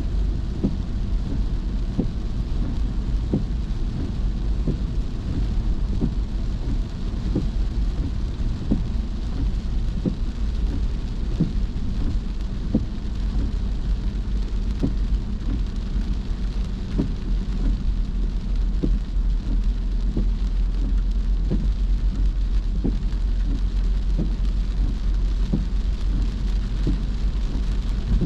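Rain falling on a moving car, with many irregular drop hits over a steady low rumble.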